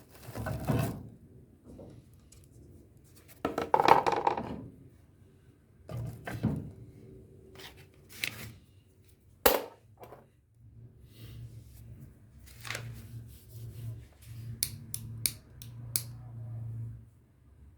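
Kitchen handling noises: scattered knocks and scrapes, one sharp click about halfway through, and a quick run of small clicks near the end.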